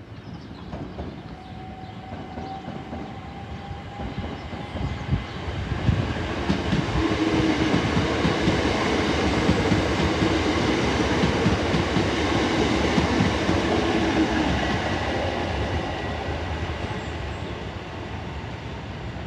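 Class 375 Electrostar electric multiple unit pulling out and passing close by, its motors whining faintly at first, then wheels clattering over rail joints as it grows louder, peaks about halfway through and fades away.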